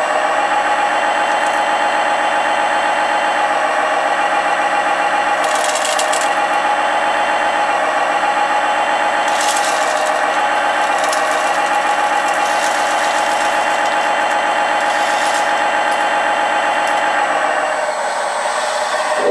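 Radio-controlled hydraulic construction model running with a steady, even-pitched whine, with a few short rattles and clatters about a third of the way in and again in the middle.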